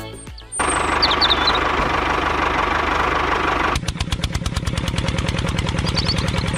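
Small engine of a miniature model tractor running: a rough, noisy run with a steady whine at first, then a rapid, even chugging from a little before four seconds in.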